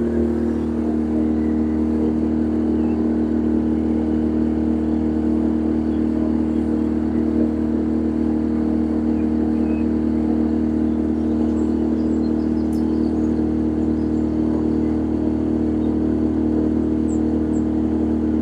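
A passenger boat's engine running steadily, an even hum that does not change in pitch or level, heard on board.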